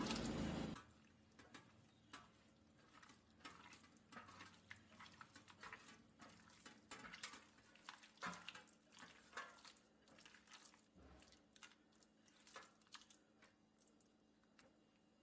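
Faint, irregular clinks and taps of kitchen utensils and dishes being handled, scattered through an otherwise quiet stretch.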